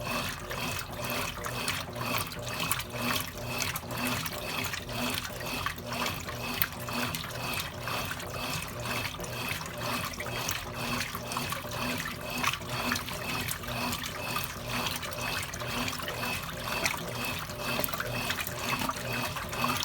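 Water moving inside a Consul Cargo 8 kg washing machine, a continuous watery wash with a faint regular pulse of about two beats a second.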